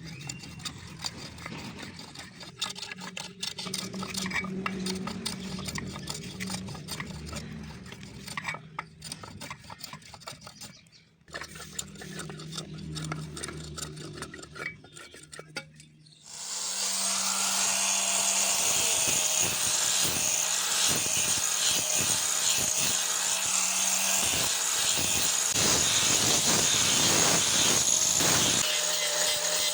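An electric power tool working steel starts a little past halfway and runs steadily with a constant whine, then cuts off shortly before the end. Before it starts there is a low hum with scattered light clicks.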